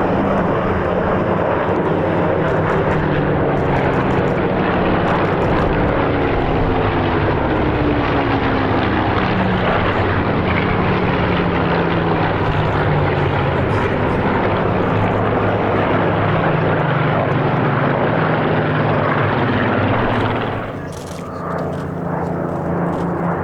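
Several Supermarine Spitfire piston engines running as the formation flies past, a loud combined engine drone whose pitch slowly falls as the aircraft pass. About 21 seconds in the sound briefly drops, then a steadier engine note carries on.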